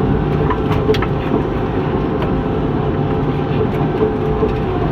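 Heavy diesel engine of a logging machine running steadily at a constant speed, loud and close.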